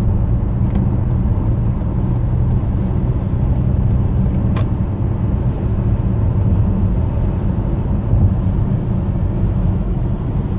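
Steady cabin noise of a 2014 Toyota Highlander cruising on the freeway at about 62 mph: a low tire-on-road rumble with a slight wind noise at the top of the driver's side windshield.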